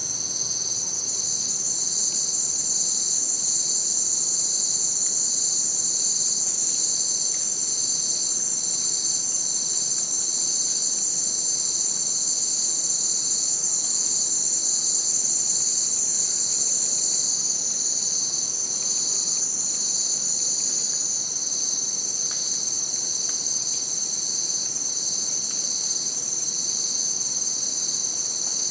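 Dense chorus of insects trilling steadily, with one band of calls pulsing about once a second.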